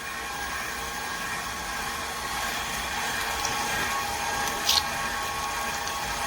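KitchenAid stand mixer motor running steadily, driving a stainless steel meat grinder attachment as meat is fed through, with a steady whine and a squishing of meat. A brief sharp click comes about two-thirds of the way through.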